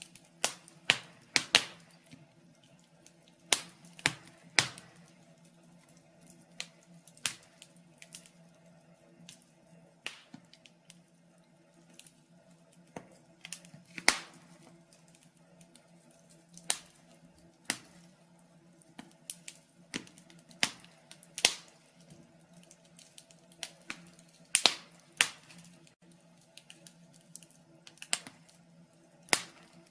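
Wood fire burning in a fireplace, crackling with sharp irregular pops and snaps at uneven intervals, over a faint steady hum.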